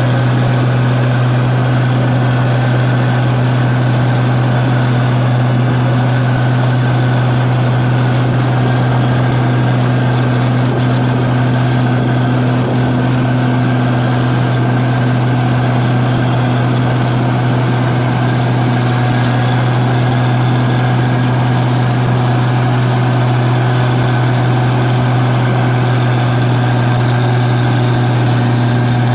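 New Holland 8060 combine harvester running steadily at work in a paddy field: a loud, even engine hum over machinery noise, holding one pitch throughout.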